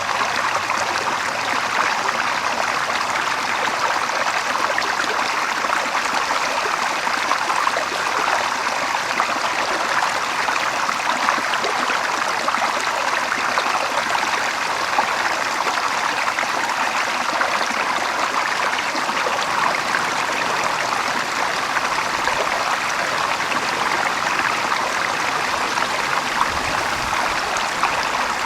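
Water running steadily in a small stream, a continuous even rush and trickle.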